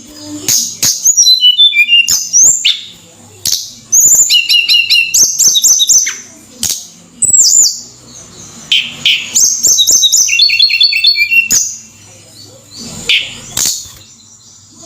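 Tledekan bird singing in full voice: phrases of rapid repeated high notes and short falling whistles, broken by brief pauses.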